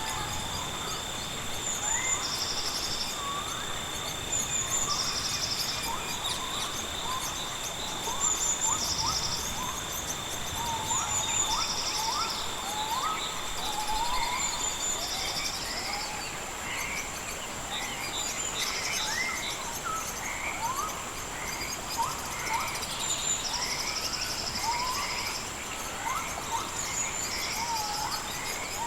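Rainforest wildlife chorus: insects hold steady high whines, one of which cuts out about halfway through, while a short pulsed buzz repeats every two to three seconds. Many short rising whistled calls come and go underneath.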